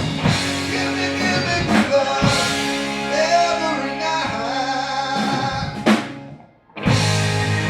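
Live blues-rock band playing, with singing, drum kit and electric guitar. About six seconds in the band hits a stop and falls silent for under a second, then comes back in.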